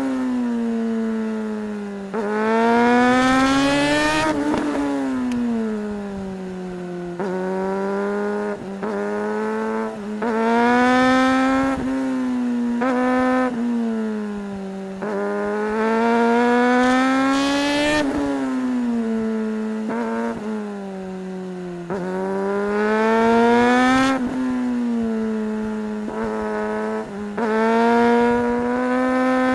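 Suzuki GSR 600's inline-four engine, heard from the rider's position, revving up again and again under hard acceleration, its pitch dropping sharply at each gear change and sinking more slowly as the revs fall off between pulls.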